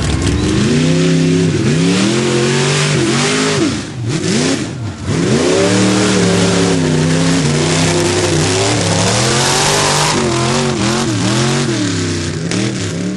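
Mud bog truck's engine revving hard, its pitch surging up and down again and again as it runs through the mud pit, with a brief drop in revs about four seconds in before it goes back on the throttle. A loud, dense hiss runs under the engine throughout.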